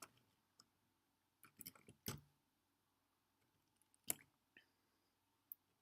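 A few scattered light clicks and taps from a small plastic LEGO tractor model being handled, the sharpest about four seconds in, over near silence.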